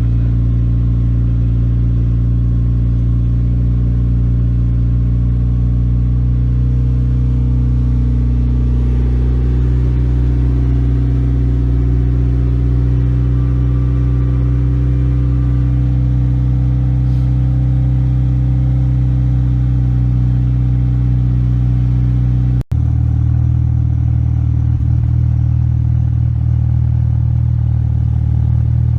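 Turbocharged four-cylinder of a 2004 Mitsubishi Lancer Evolution GSR running at a steady speed through an Espelir JGT500 exhaust, with a loud, low, even exhaust note. It drops out for a split second about 23 seconds in, and the tone then carries on slightly changed.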